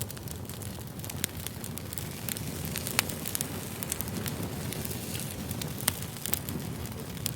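Campfire burning: a steady low rumble of flames with frequent sharp crackles and pops of burning wood, a few of them louder.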